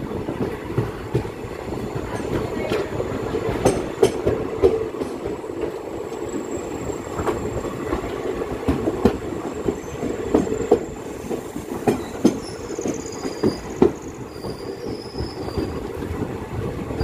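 Passenger train rolling into a station, heard from its open door: a steady rumble with wheels knocking and clattering over the rail joints. A high squeal joins in from about twelve seconds in.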